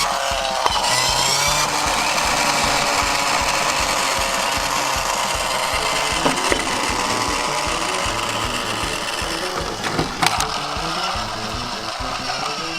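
Toy garbage trucks rolling down a wooden ramp: a continuous rattling of small wheels on wood, with a sharp knock about ten seconds in, over background music with a steady beat.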